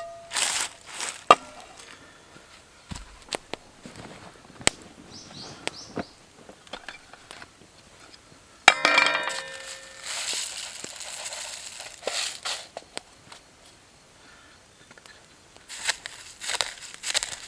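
Metal camp cookware being handled by an open wood fire, with scattered clicks and crackles throughout. About nine seconds in comes one ringing metal clang, followed by a few seconds of hiss, and a short bird call comes earlier.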